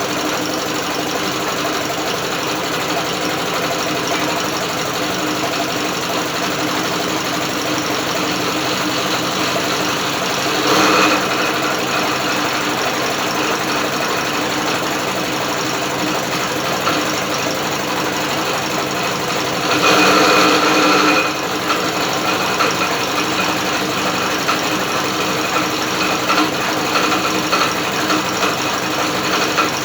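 British Seagull outboard motor being spun over by an electric drill: a steady mechanical whirring run. It briefly gets louder about a third of the way in and again for over a second around two-thirds of the way in, then runs less evenly.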